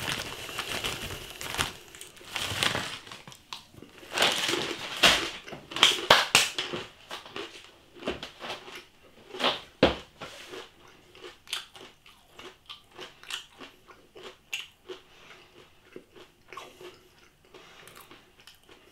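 A person crunching and chewing hard-coated peanuts close to the microphone. Loud, irregular crunches for the first six or seven seconds give way to quieter, quicker chewing.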